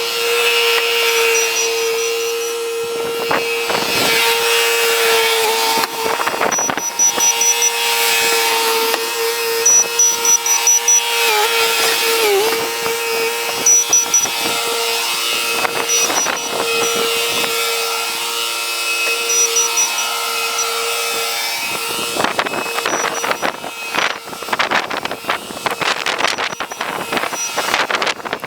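Bobcat skid-steer running while plowing snow: a steady high-pitched whine with overtones that sags briefly under load about twelve seconds in. Rattling and scraping clatter come and go, thickest over the last several seconds.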